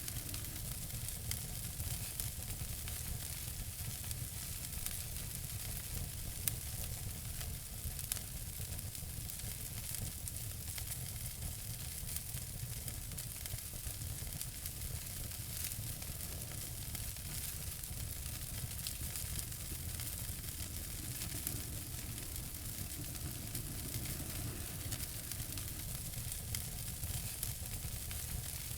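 Wood fire burning in a fireplace: a steady hiss with continual small crackles and pops, over a low rumble of the flames.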